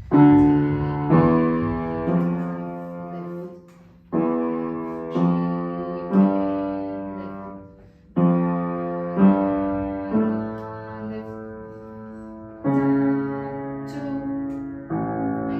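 Piano being played by a student: a pattern of three struck chords about a second apart, each ringing and fading, played three times with short gaps. Two more chords follow near the end.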